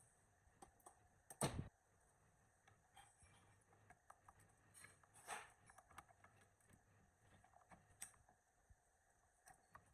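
Near silence with a few faint clicks and short knocks, the loudest about one and a half seconds in and another about five seconds in.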